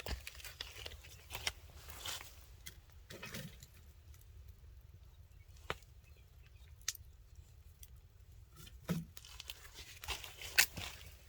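Wood campfire crackling: scattered sharp pops and snaps, sparse in the middle and busier near the end.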